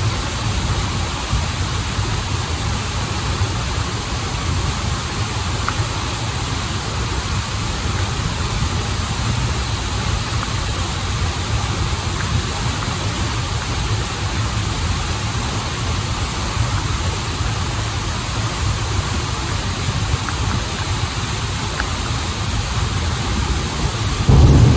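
Running water of a stream and waterfall rushing steadily, with a low rumble underneath. It turns suddenly louder and deeper at the very end.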